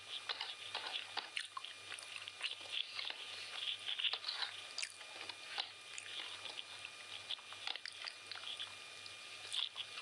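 A person chewing a mouthful of chicken biryani, with irregular short mouth clicks and smacks several times a second.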